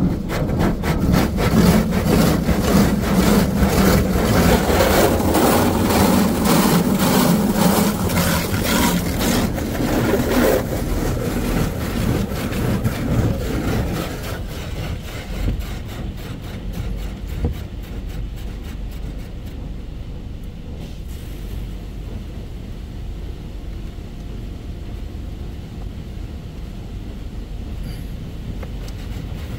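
Futura Millenium touch-free car wash machine working on the car, heard from inside the cabin: loud, rough rushing noise with a fast pulse. It dies down after about ten seconds to a steady low rumble.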